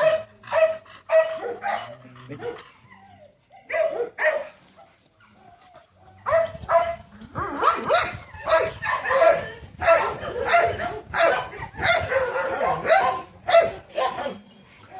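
A dog barking and yipping over and over, in short runs at first, then nearly without pause from about six seconds in.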